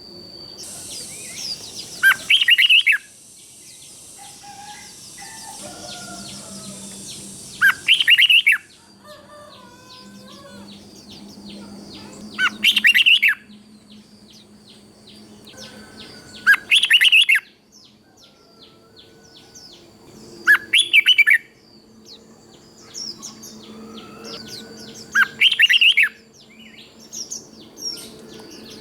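Red-whiskered bulbul singing its short, loud song phrase six times, roughly every four to five seconds, each phrase about a second long, with fainter chirps in between.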